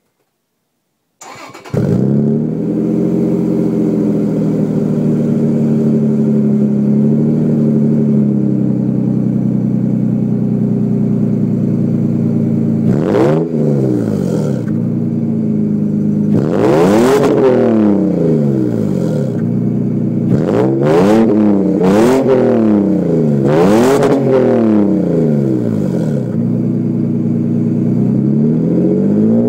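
Toyota Tacoma's 4.0-litre V6 starting up about a second and a half in and running through a homemade 2.5-inch exhaust with a 3.5-inch muffler and 4-inch tip. It idles steadily, then from about 13 seconds on it is revved in a series of quick blips, the pitch rising and falling with each, and climbing again near the end.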